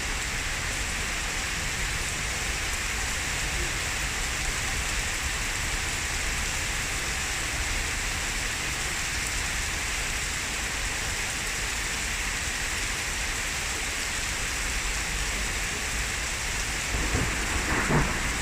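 Heavy downpour of rain, an even, steady hiss. Near the end thunder starts to rumble, with a sharp crack about a second before the close.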